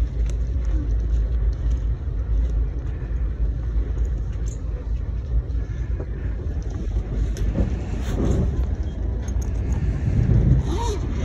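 Steady low rumble of a moving VIA Rail passenger train, heard from inside the coach.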